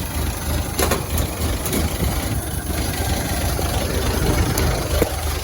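1931 Ford Model A's four-cylinder flathead engine idling steadily, with a couple of sharp clicks about a second in and again near the end.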